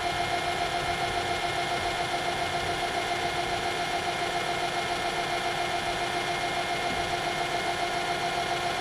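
Small metal lathe running steadily, its motor and drive giving an even whine with a faint regular pulse.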